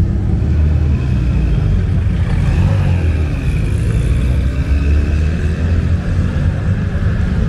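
Car engines running with a steady low rumble, with some pitch changes as the engines rev around the middle.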